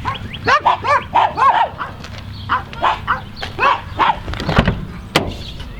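A dog barking repeatedly, short barks in two quick runs, with a single sharp click about five seconds in.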